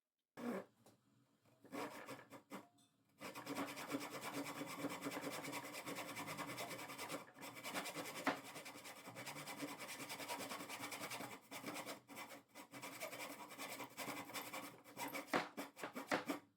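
A hand tool rubbing and rasping against pine. A few short scrapes come first, then from about three seconds in a steady run of rapid scraping strokes that stops near the end.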